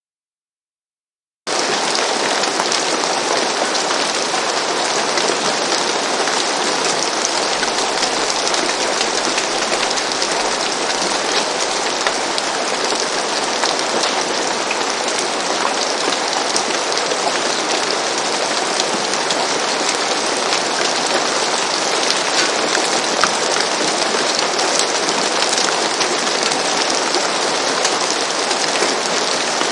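Rain falling steadily on a roof, starting suddenly about a second and a half in after silence.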